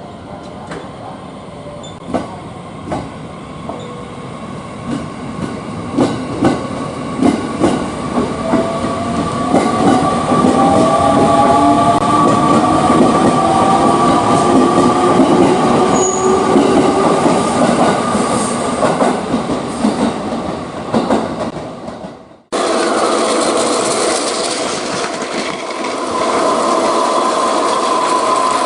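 Electric train picking up speed: wheel clacks over the rail joints come closer and closer together, and the motor whine rises in pitch as it accelerates. About 22 seconds in the sound cuts abruptly to another steady, loud train running sound with a held tone.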